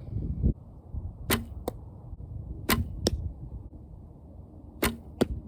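35-pound recurve bow shot three times: each shot is a sharp snap of the string on release followed about a third of a second later by a second sharp crack as the arrow reaches the target. A low knock comes about half a second in, before the first shot.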